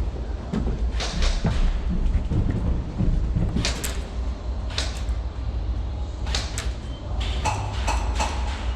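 Airsoft guns firing: several sharp pops spaced irregularly, over a steady low rumble of wind and movement on the microphone.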